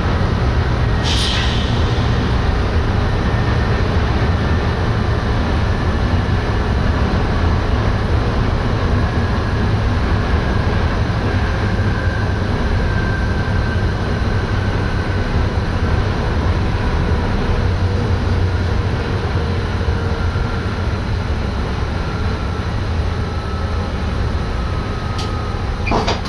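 NS SGM Sprinter electric multiple unit running along the line, heard in the driver's cab: a steady low rumble with faint tones that slide slowly up and down in pitch. A brief high-pitched sound cuts in about a second in.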